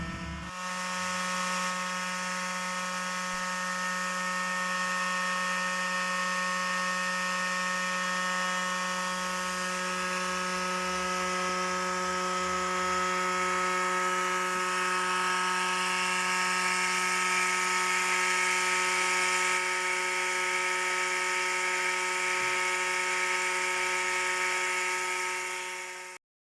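Brushless electric motor of a 1/4-scale RC dirt bike whirring at a constant speed, a steady hum that holds one pitch throughout and cuts off abruptly near the end.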